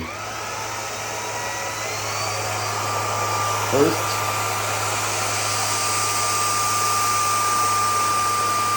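Cordless stick vacuum running, its motor whine climbing in pitch over the first few seconds as it spins up, then holding steady over a constant rush of air.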